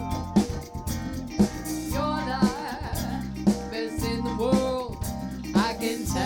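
Live band music: guitar, bass and drums with a steady beat, and a voice singing in places.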